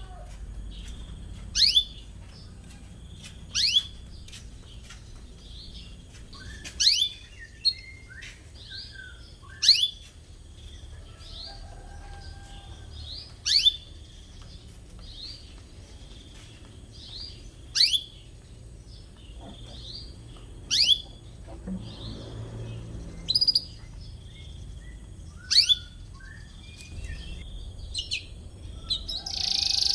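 Canary giving sharp, falling "cuit" calls about every two seconds, with softer chirps in between.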